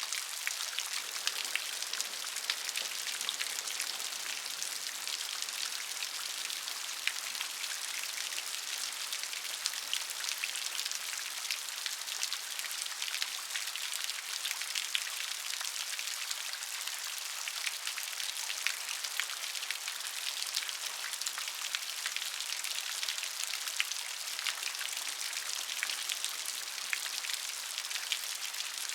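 Steady rain falling, a constant high hiss with many small, sharp drop ticks spread through it.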